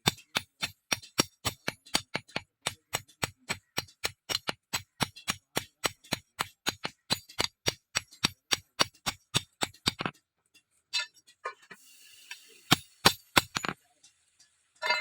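Hand hammer striking steel in a steady run of ringing blows, about four a second, stopping about ten seconds in; a few scattered blows follow.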